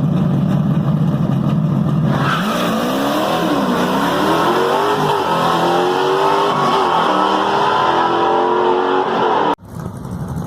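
Dodge muscle car's V8 at a drag strip: a steady loud engine note for about two seconds, then the car accelerates hard, the pitch climbing and dropping back at each gear change. The sound cuts off suddenly near the end.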